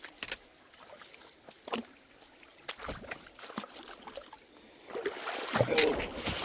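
Footsteps and trekking poles on a wet, muddy jungle trail: irregular knocks, taps and squelches. About five seconds in, a louder rushing noise joins them.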